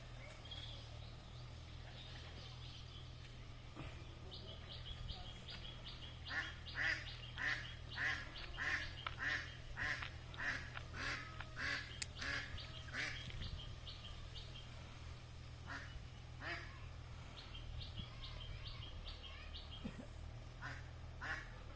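Ducks quacking in a run of calls about two a second, with quick high chirps from smaller birds and a steady low hum underneath.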